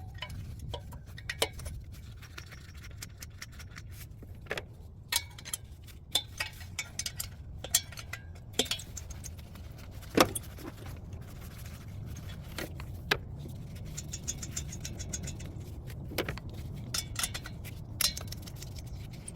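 Irregular metallic clicks and clinks of a wrench and loose nuts as 12 mm exhaust nuts are worked off their studs one after another, over a low steady hum.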